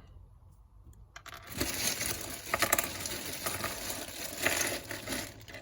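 Hands rummaging through loose LEGO minifigure pieces: small plastic parts clattering and clicking against each other with rustling, starting about a second in and running in a dense jumble of clicks.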